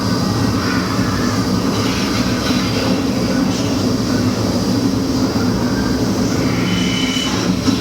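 Hurricane simulator machine blowing hard: a steady rush of driven air over a low, constant fan hum, with a brief faint high tone just before the end.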